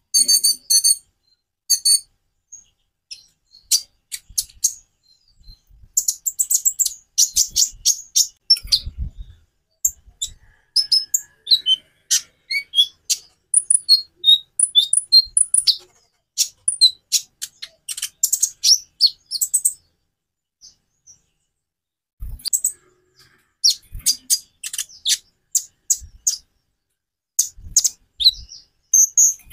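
Konin (kolibri ninja sunbird) singing: rapid, high, thin chirps and trills in bursts, broken by short pauses, with one longer pause about two-thirds of the way in.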